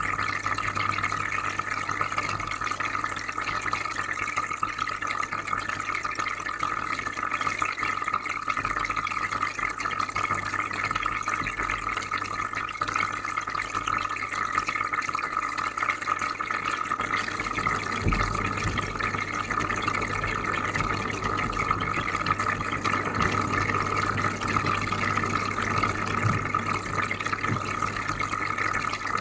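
Aquarium filter running: a steady bubbling and trickling of water over a low, even hum.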